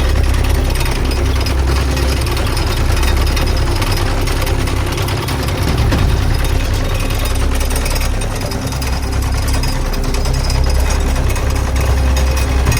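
Farm tractor engine running steadily with a rapid, knocking chug.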